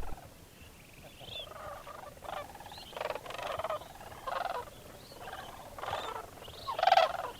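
A flock of sandhill cranes calling: many overlapping calls one after another, growing louder, with the loudest just before the end.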